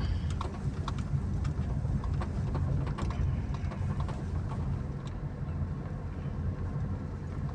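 A car being driven, with a steady low rumble of engine and road noise and a few faint ticks.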